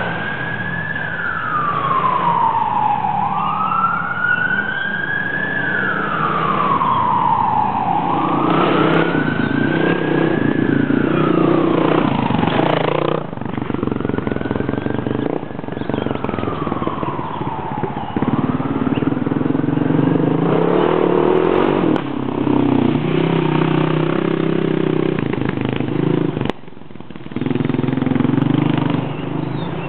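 A wailing siren rises and falls about once every four seconds, growing fainter after about thirteen seconds and dying away near twenty seconds. Dirt bike engines run steadily underneath.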